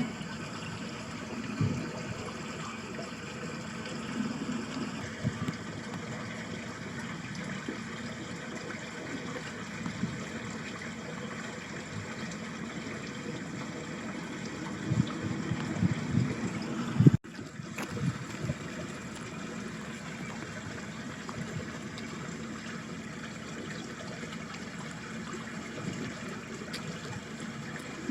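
Water running in a small ditch stream, a steady trickling and babbling, with low gusts of wind rumbling on the microphone now and then, strongest about fifteen to seventeen seconds in. The sound cuts out for an instant about seventeen seconds in.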